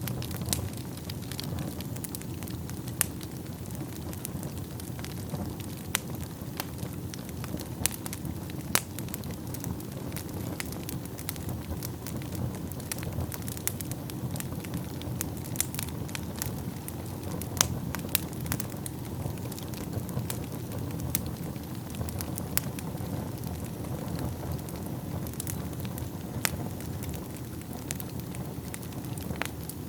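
Wood fire burning in a fireplace: a steady low rumble of the flames with irregular sharp crackles and pops from the burning wood, a few of them louder.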